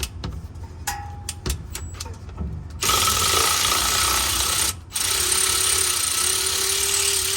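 A few light clicks and taps, then about three seconds in an impact wrench starts hammering on transmission pan bolts, loosening them to let the fluid drain. It runs in two bursts of about two and three seconds with a brief stop between.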